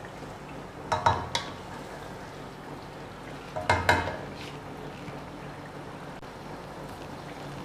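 Chicken korma sizzling steadily in a pot on a gas burner, with a wooden spoon stirring and knocking against the pot twice, about a second in and about four seconds in.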